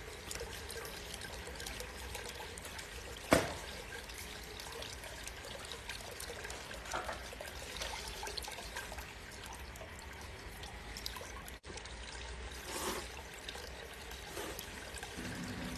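Water trickling steadily along the channel of a homemade flowing-water noodle machine, with one sharp click about three seconds in.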